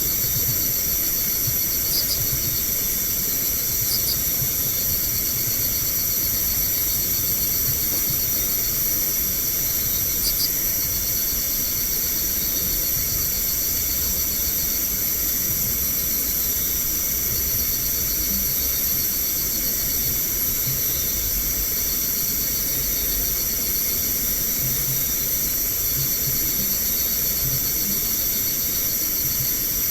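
Steady chorus of crickets and other night insects, several shrill high notes held without a break, over a hiss and a low rumble.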